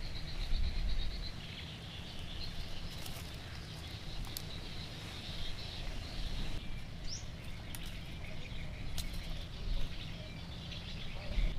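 Small birds chirping outdoors, with short repeated chirps and one rising chirp about seven seconds in, over a low rumble and a few scattered clicks.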